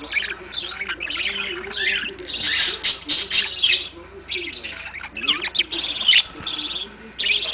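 Small pet parrots chattering: an unbroken run of quick chirps and squawks, with louder calls from about two seconds in.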